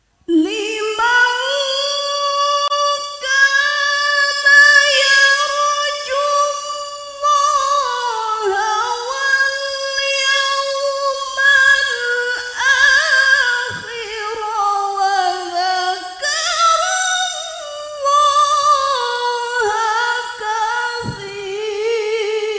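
A woman reciting the Qur'an in the melodic tilawah style, drawing out long ornamented phrases with trills and slides that sweep up and fall away, with short breaths between phrases. The voice enters out of silence just after the start.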